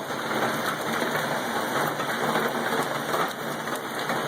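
Heavy rain falling as a steady, dense patter.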